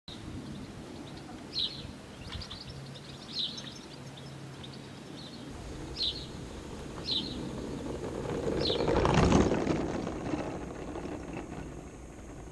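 Birds chirping, one short call every second or two, over steady outdoor background noise. A rushing noise swells to its loudest about nine seconds in and then fades away.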